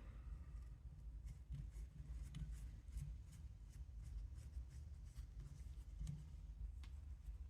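Faint, scattered light clicks and rubbing, like small parts being handled, over a steady low hum.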